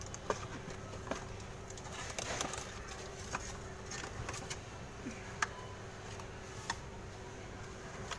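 Background ambience: a steady low hum and a faint haze of noise, with scattered short sharp clicks or chirps every second or so, the loudest about five seconds in.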